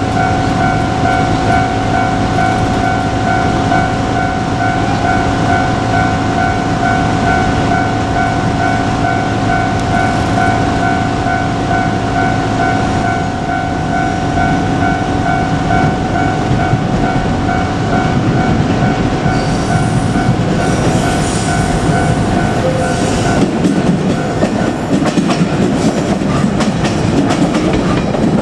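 A JR Kyushu 817-series electric train running past a level crossing, its wheels clattering over the rail joints, while the crossing's electronic warning bell rings steadily. The bell stops about 23 seconds in, and the train's clatter goes on.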